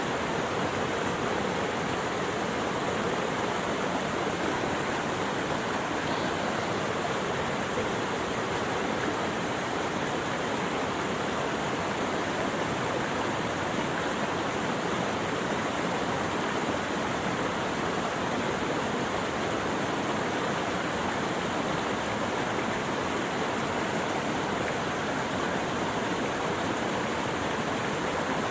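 Running water flowing steadily, an even, unbroken wash of sound with no change in level.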